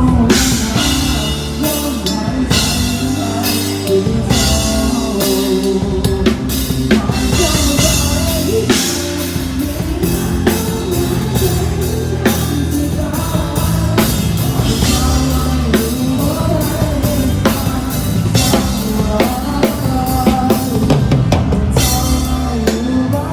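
Live band playing a rock-style song, with a drum kit hitting steadily and a strong bass drum under the melody.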